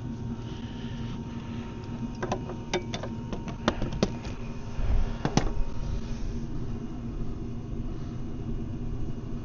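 Hand tools clicking and clinking on metal: a quick, uneven run of about eight sharp clicks a couple of seconds in, over a steady low rumble.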